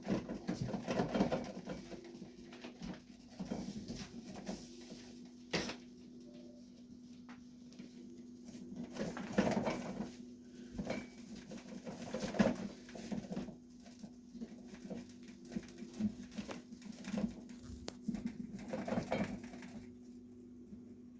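Irregular handling noise of a rubber refrigerator door gasket being worked by hand: rustling, rubbing, light knocks and clicks, over a steady low hum.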